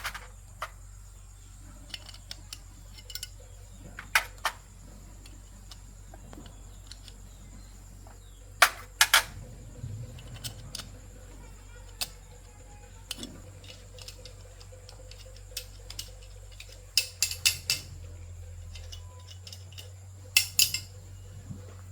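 Scattered sharp clicks and light knocks of small hard parts and tools being handled, some in quick clusters of three or four, over a steady low hum.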